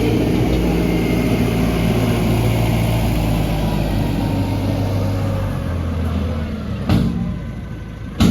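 Heavy diesel earthmoving machinery engine running steadily, then fading about five or six seconds in, followed by two sharp knocks near the end.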